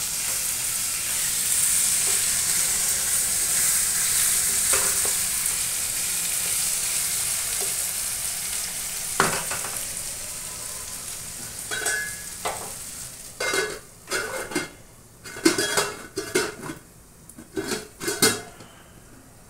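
Potato and pointed gourd pieces sizzling in oil in a wok, with a spatula stirring. The sizzle fades, and in the last several seconds a run of sharp metal clanks and knocks comes as a steel lid is handled and set on the wok.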